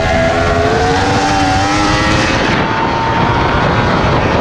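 Yamaha sport motorcycle's engine under hard acceleration, its note rising for about two seconds. Then the sound changes to a rush of wind noise at speed with a fainter, slowly rising engine note.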